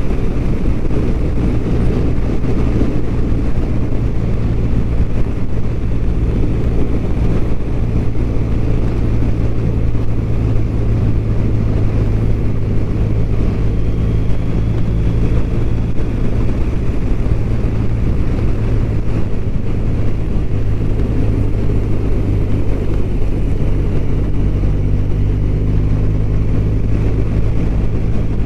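BMW R1200RT's boxer-twin engine running at a steady cruising speed, with road and wind noise. The engine note shifts slightly about three-quarters of the way through.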